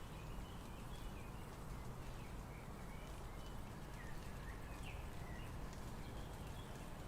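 Quiet background: a steady low hum with scattered short, faint, high chirps.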